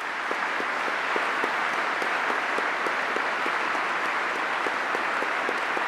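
Audience applauding, swelling up as it begins and then holding steady.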